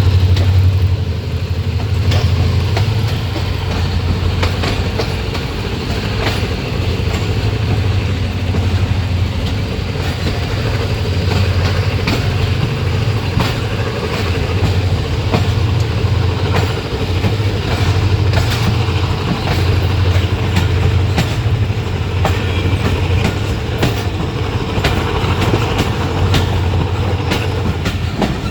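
Railway coach in motion, heard from on board: a steady low rumble with a faint held tone, and the wheels clicking over rail joints at irregular intervals.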